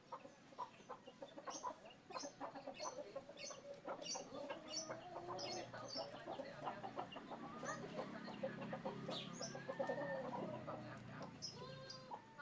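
Chickens clucking, with scattered short clicks and knocks.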